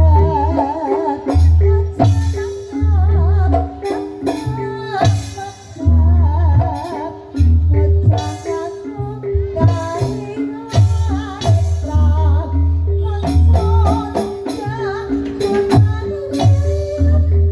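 Live traditional dance accompaniment music: heavy, frequent drum strokes, a steady held note, and a wavering melody line with vibrato above them.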